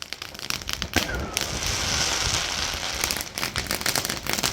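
Firework rockets (BKV Typhoon ball rockets) bursting in a dense crackle of rapid pops with a sizzling hiss.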